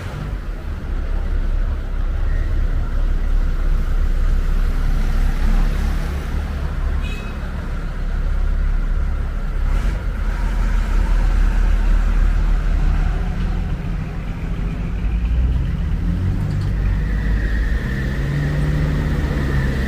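Steady low rumble of a motor vehicle on the road, engine and road noise running throughout.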